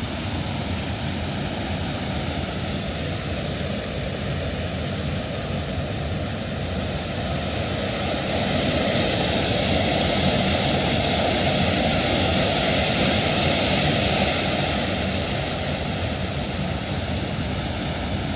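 Steady rushing of a waterfall running high after rain, growing somewhat louder near the middle.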